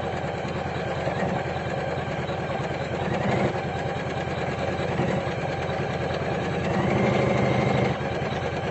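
Computerized embroidery machine running steadily, its needle stitching in a rapid, even rhythm, a little louder for about a second near the end.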